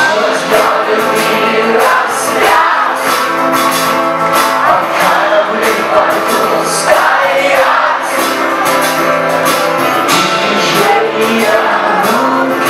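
Rock band playing live with singing: a song with guitars and a voice carrying the melody.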